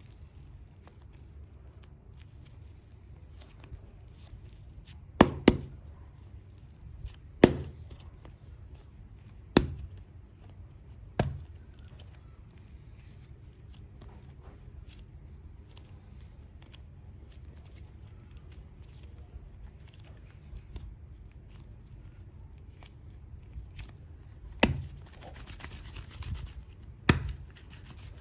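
Super clay packaging being unboxed by hand: a handful of sharp clicks and knocks, a cluster in the first half and two more near the end, with a short rustle between the last two.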